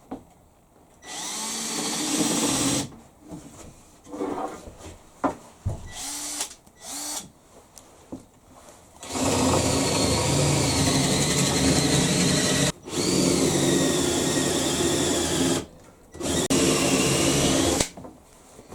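Handheld power drill running in four bursts of a few seconds each, its whine wavering in pitch as it takes load, with short knocks and handling noises in between.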